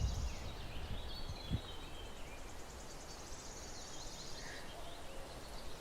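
Small birds trilling and chirping outdoors: fast, high trills with a few shorter chirps in between. A low rumble underneath eases after the first second or so, and there is one soft knock about one and a half seconds in.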